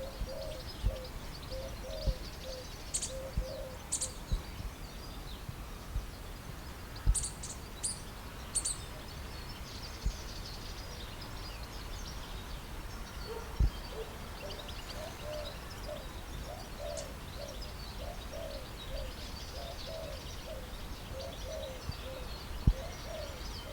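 Birds calling: a low call repeated in quick runs, at the start and again through the second half, over scattered high chirps. Occasional sharp low bumps.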